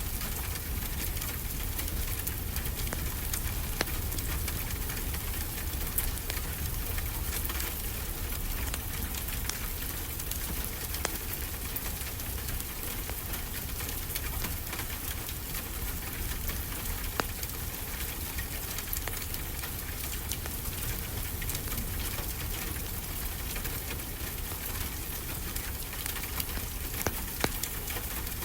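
Steady rain hissing evenly, with a wood fire crackling: scattered sharp pops over the rain and a low rumble underneath.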